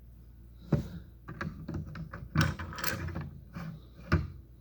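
Plastic Lego pieces clicking and knocking together as they are handled: a loose run of small sharp clicks, with louder knocks about a second in and again near the end.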